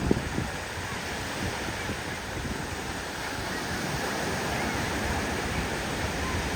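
Ocean surf washing steadily on a beach, with wind on the microphone and a brief low bump right at the start.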